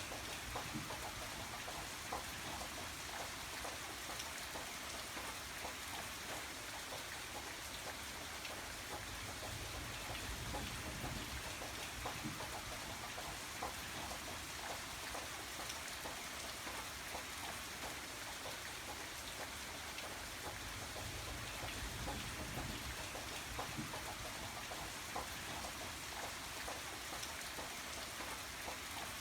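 Steady rain falling on a surface, with many distinct drops ticking through it over a soft low rumble.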